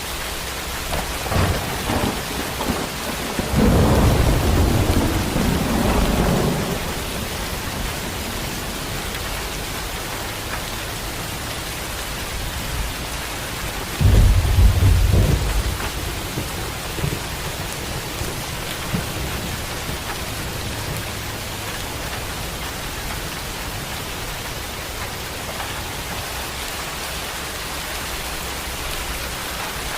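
Steady heavy rain with thunder: sharp cracks building into a long rumble in the first several seconds, then a second loud clap and rumble about halfway through.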